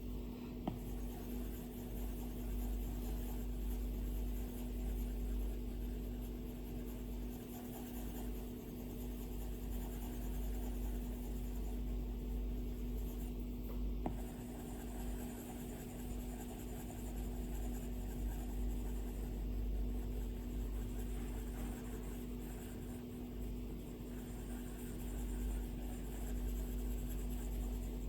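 Stylus tip scratching across an iPad screen in continuous drawing strokes, over a steady low hum. There are two light taps, one just after the start and one about halfway through.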